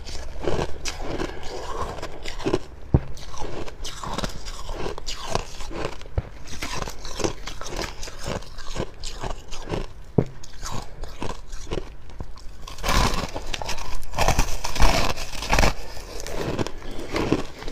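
Close-miked biting and chewing of fluffy freezer frost: a steady run of dry, irregular crunches, louder and denser for a few seconds near the end.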